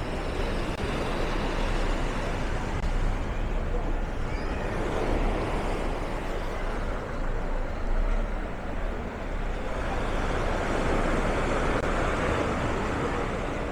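Street traffic: motor vehicles passing, swelling louder about five seconds in and again near the end, over a low rumble.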